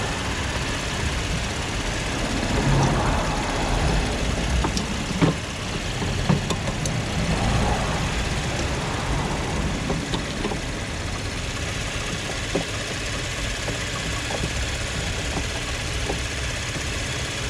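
Car engine idling steadily, with a few light clicks of hands handling the plastic headlight housing and bulb.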